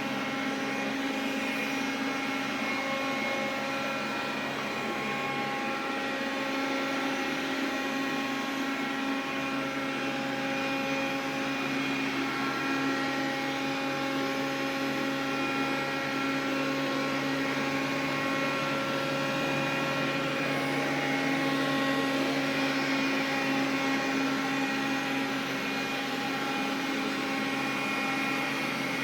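Xiaomi vacuum cleaner running steadily: a constant motor hum with several steady whining tones over a rushing airflow. It is making an extraneous noise that the owner is trying to track down.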